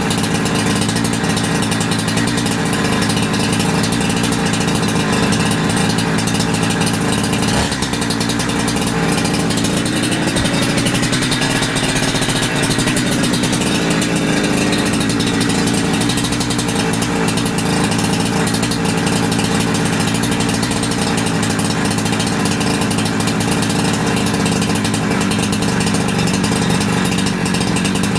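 Holzfforma G372XP two-stroke chainsaw engine idling steadily while its carburettor's low-end and idle settings are being tuned. The engine speed wavers slightly about halfway through.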